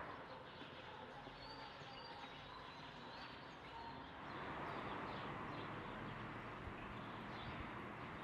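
Faint outdoor ambience: small birds chirping in short calls over a steady background hiss, the background growing slightly louder about four seconds in.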